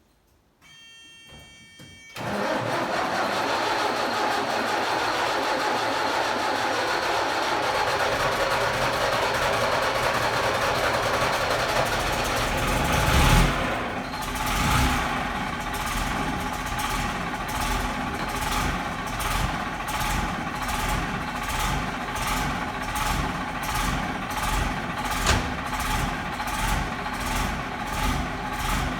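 Cold start of a Foden Fleetmaster's Gardner 6LXC six-cylinder diesel: a steady whirring that sounds like the starter cranking begins about two seconds in, the engine catches with a loud burst about halfway through, and it then runs at idle with a regular pulsing beat.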